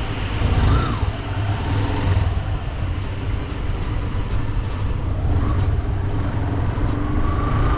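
Yamaha motorcycle engine running steadily as the bike pulls away and rides slowly down a lane.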